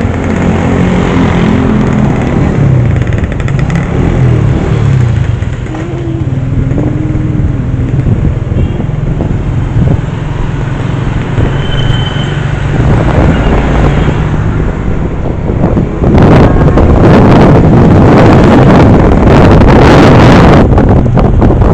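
Motor vehicle engine running steadily while on the move. About three-quarters of the way through, loud wind buffeting on the microphone takes over.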